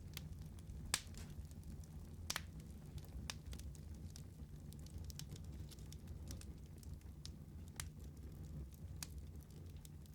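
Wood fire burning in a fireplace, crackling with scattered sharp pops over a low, steady rumble; the loudest pops come about one and two seconds in.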